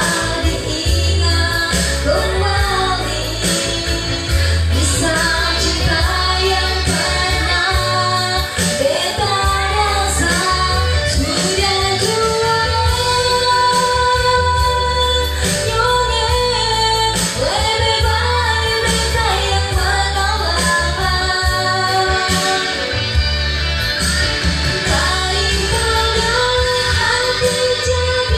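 A woman singing a melodic pop song over a backing track with bass and a steady drum beat.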